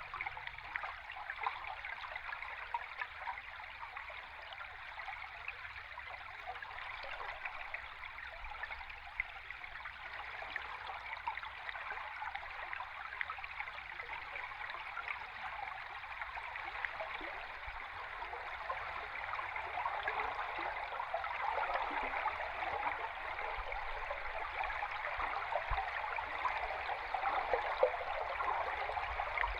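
A river stream heard from underwater: a steady rush of water with a dense crackle of tiny ticks, getting a little louder about two-thirds of the way through.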